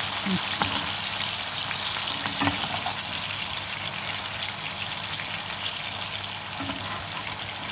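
Tomato slices sizzling steadily as they fry in hot oil in a pan, with a couple of light clicks from a slotted spatula touching the pan as the slices are turned.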